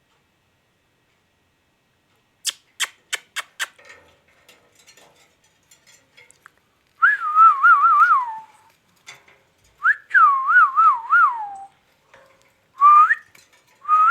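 Indian ringneck parrot whistling: a quick run of five sharp clicks, then several warbling whistled phrases of a tune, each wavering up and down and the longer ones sliding down at the end.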